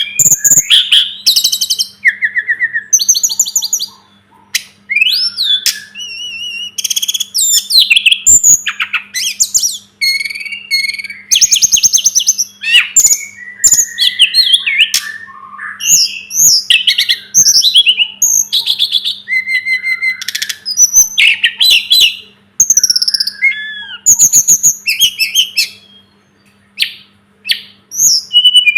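Tledekan gunung (sulingan gunung) singing a fast, varied song of whistles, slurred notes and short trills, phrase after phrase with hardly a break. A faint steady hum runs underneath.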